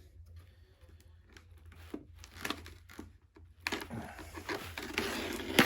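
Model train boxcar's box being opened by hand: a few light clicks and taps, then about two seconds of packaging tearing and crinkling, ending in a sharp snap.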